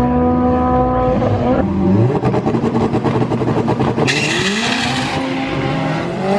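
Drag race car engine held at high revs. It drops off about a second and a half in, then pulses choppily before a brief burst of hiss about four seconds in. The engine note then climbs again as it accelerates.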